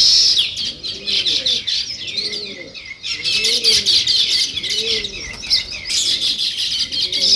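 A flock of sparrows chirping busily, many short overlapping chirps at once, thinning briefly before picking up again. Underneath, another bird repeats a low call that rises and falls, about once a second.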